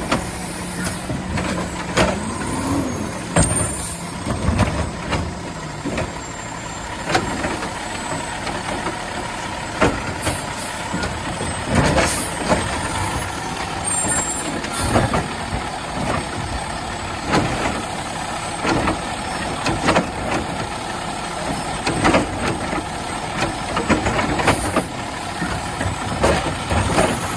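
Peterbilt 520 garbage truck with a Labrie Automizer side-loader running, with sharp knocks and bangs about every two seconds over the steady engine drone as it works a line of carts.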